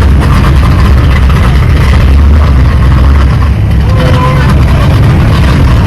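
Car engine running with a loud, steady, deep rumble.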